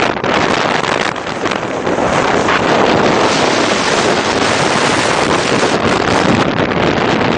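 Blizzard wind blasting against the microphone: loud, rushing noise that gusts unevenly at first and becomes a steady, unbroken roar after about two seconds.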